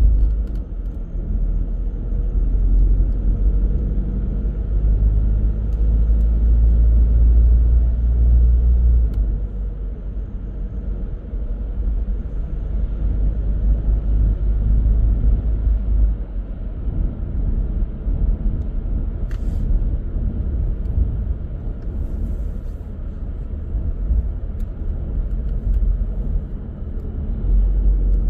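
Car on the move: a steady low rumble of road and engine noise. It is louder for the first third and eases after about nine seconds.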